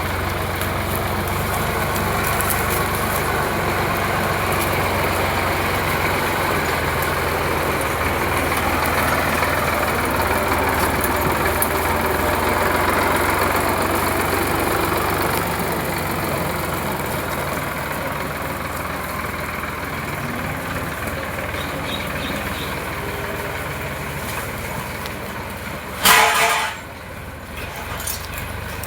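Sonalika DI 745 tractor's diesel engine running steadily, with a brief loud horn toot near the end.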